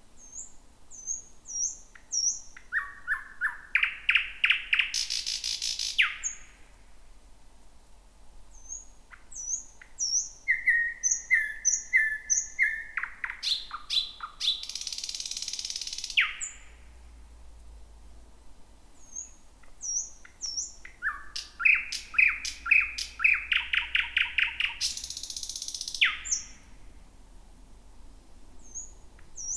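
Thrush nightingale singing three song phrases. Each phrase opens with high, upslurred whistled notes, runs into a fast series of knocking notes that speeds up, and ends in a harsh rattle.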